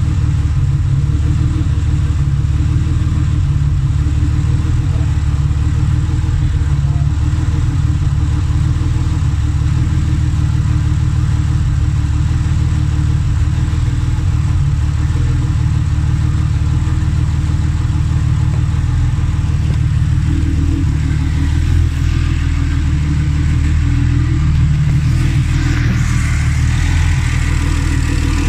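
Turbocharged Mercedes M104 straight-six in an S124 wagon idling steadily, a newly built engine on its first run. A little more hiss joins in over the last several seconds.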